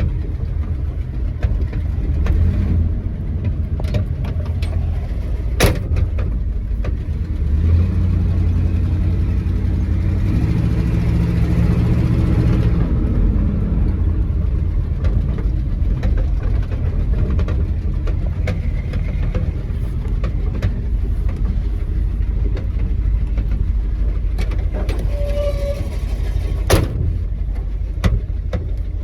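1973 Chevy K20 pickup truck being driven, its engine running steadily over a low road rumble. The engine note grows louder for a few seconds about a third of the way in, and there are two sharp knocks, about six seconds in and near the end.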